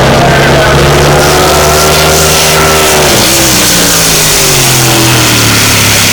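Supercharged alcohol-burning engine of a displacement race boat running hard. The engine note holds and rises slightly, drops briefly about three seconds in, then climbs again.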